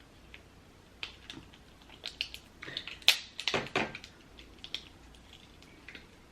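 Lobster shell being cracked open: scattered sharp cracks and clicks, the loudest cluster about three to four seconds in.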